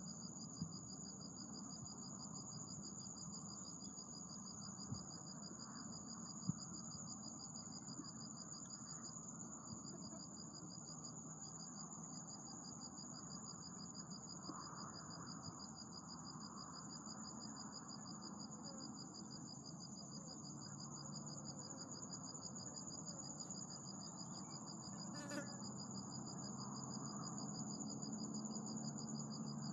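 Insects trilling steadily in two high, fast-pulsing tones, the noise the title calls the sekuiz. A few soft knocks sound in the first seconds, and there is a sharp click about 25 seconds in.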